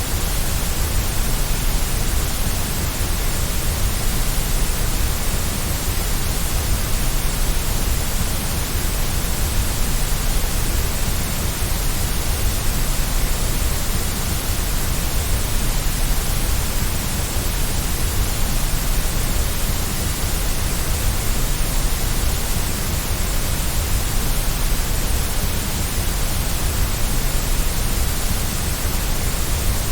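Steady white noise: an even, unbroken hiss with a strong low rumble beneath it, unchanging.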